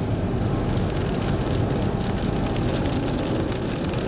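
Steady low rumble of a storm-chase vehicle's road and engine noise, with faint scattered ticks over it.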